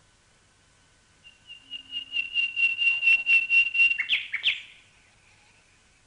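A bird calling: a run of short, high, repeated notes that starts about a second in, gets faster and louder, and ends in two sharp downward-slurred notes.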